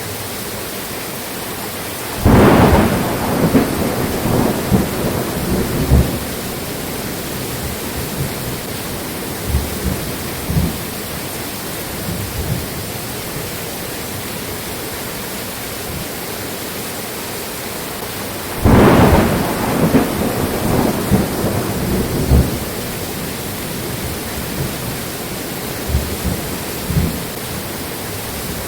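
Steady rain hiss with two peals of thunder, one shortly after the start and one about two-thirds of the way through. Each breaks suddenly and rumbles on for a few seconds, and fainter rumbles come in between.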